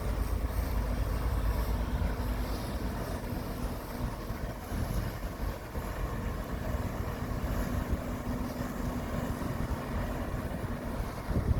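Tugboat engine running with a faint steady hum, under a heavy low rumble of wind on the microphone.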